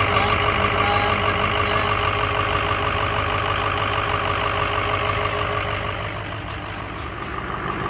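Ford 6.0 Power Stroke V8 turbo-diesel idling steadily with its freshly replaced base oil pump, no longer leaking oil. The engine eases slightly quieter about six seconds in.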